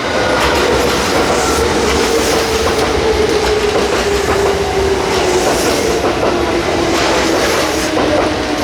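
Kintetsu electric train running close past the platform, wheels clattering over the rail joints, with a motor whine that falls steadily in pitch as the train slows.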